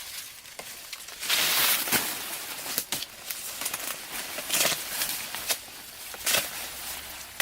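Plant leaves and stalks rustling and crackling as they are handled during harvesting. There is a longer rush of rustling about a second in, then several sharp snaps and cracks.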